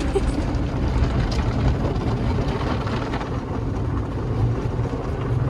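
Steady low rumble with a noisy wash above it, heard inside a car's cabin during an automatic car wash.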